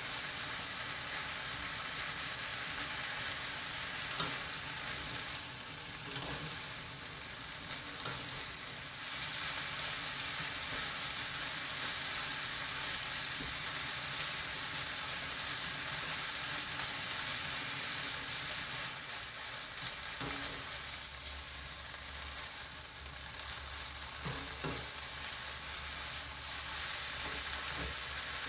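Chwinamul (wild aster greens) sizzling steadily in a pan as they are stir-fried, with a few sharp clicks.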